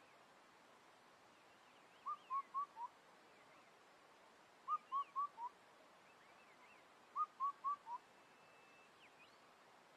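A bird repeats a short phrase of four clear whistled notes three times, about two and a half seconds apart; the last note of each phrase is a little lower. Fainter, higher chirps from other birds sound in between.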